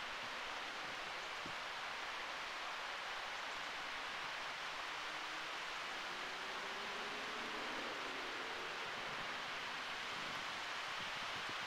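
Steady hiss of rain falling in a thunderstorm, picked up by a low-gain camera microphone.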